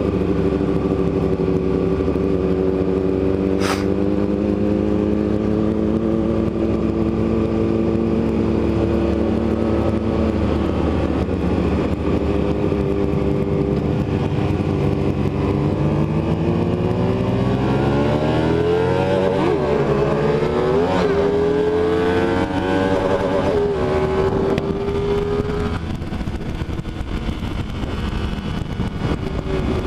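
Motorcycle engine running at a steady cruise, then its pitch falls and climbs several times through throttle and gear changes, with wind rushing throughout. A single sharp click comes about four seconds in.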